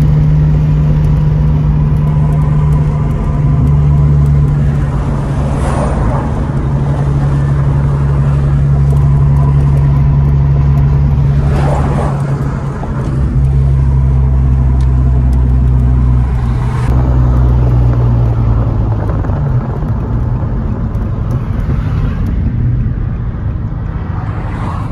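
Nissan 350Z's V6 engine droning steadily inside the cabin while driving, over road noise, its note shifting a few times as the speed changes. Three brief whooshes sound about a quarter, half and two-thirds of the way through.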